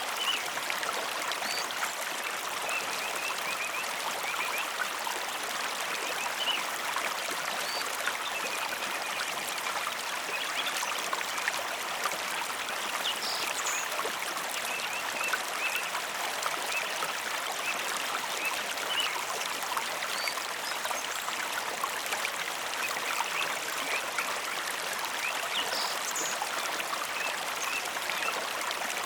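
Mountain river flowing steadily, an even rush of water with small splashes in it.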